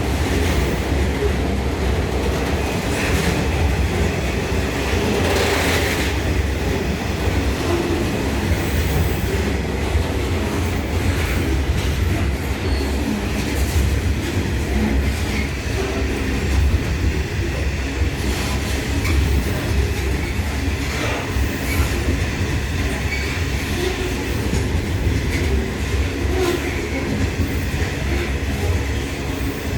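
Loaded coal train rolling past: a steady low rumble of the wagons on the track, with scattered wheel clacks over the rail joints.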